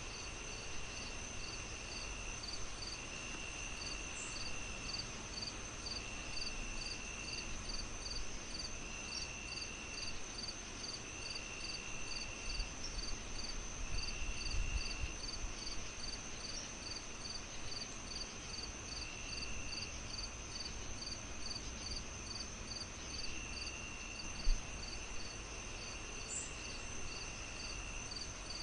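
Crickets chirping in a steady rhythm, about three chirps a second, with a steady high-pitched trill and a lower trill that comes and goes in bursts of about a second. Underneath is a low, even rumble, with one soft low thump about 24 seconds in.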